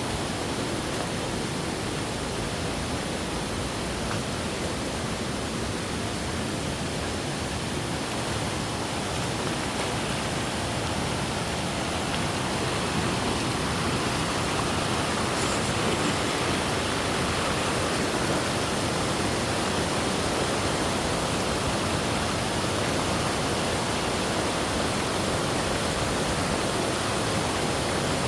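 Waterfall: a steady rush of falling water, a little louder from about halfway through.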